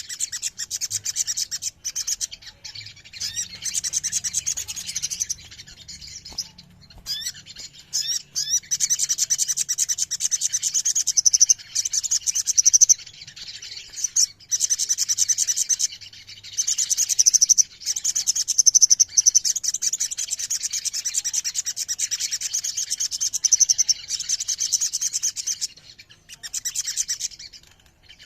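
A sogon, a sunbird, singing long, rapid, high-pitched trilling runs of several seconds each, broken by short pauses.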